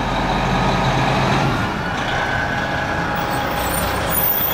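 Fire engine (1992 Spartan Gladiator telesquirt) running with a steady low diesel engine note as it pulls away on a call.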